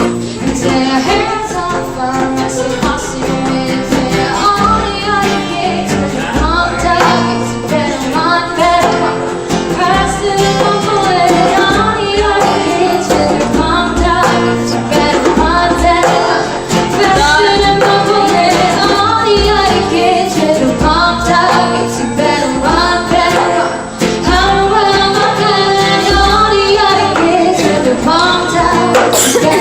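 Live acoustic band music: a voice singing over strummed guitar and a steady beat.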